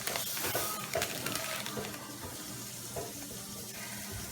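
Loose plastic Lego pieces rattling and clicking as hands rummage through a pile, a busy run of small light clicks.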